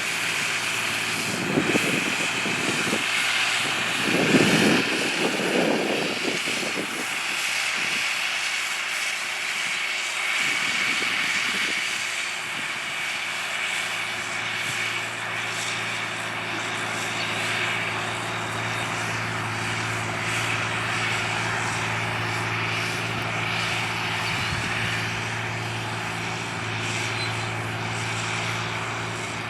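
John Deere 8300 tractor's six-cylinder diesel engine running steadily while cultivating, with a few louder surges in the first several seconds and a steadier low hum settling in from about halfway.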